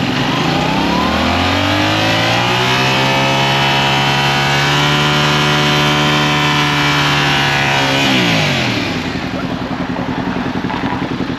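Kawasaki Ninja 400's parallel-twin engine pulling up in pitch over about three seconds, holding a steady pitch for about five seconds, then dropping away as the throttle closes, with a steady rush of wind noise underneath.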